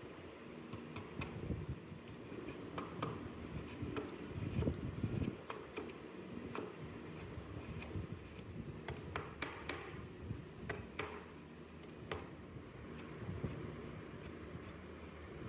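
Hand carving tools working wood: irregular light clicks, taps and scrapes, a few at a time, over a low background rumble.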